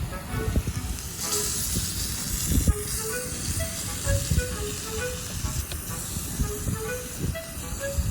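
Strong wind buffeting the microphone: a low, gusty rumble with a rushing hiss that thickens about a second in. Light background music of short, spaced notes plays underneath.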